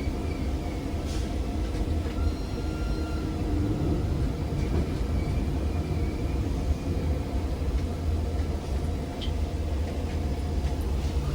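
ZiU-682 trolleybus in motion, heard on board: a steady low rumble of the running gear and road, with a few faint short squeaks and ticks over it.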